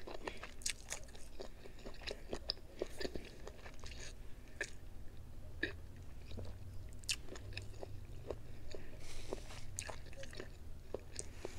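Close-miked chewing and eating sounds: irregular small wet clicks and smacks of the mouth, over a faint steady low hum.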